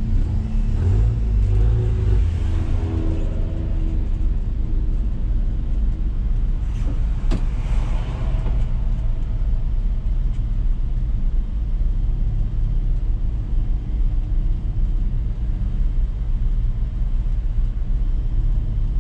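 Renault Mégane 3 RS's 2.0-litre turbocharged four-cylinder idling, a steady low hum heard inside the roll-caged cabin, with a single brief click about seven seconds in.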